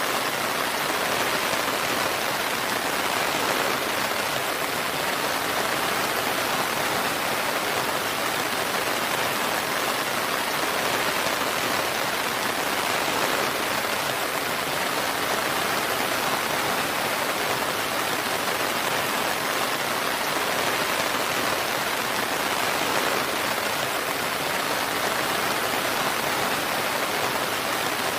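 Steady, heavy rain falling, an even, unbroken hiss with no thunder.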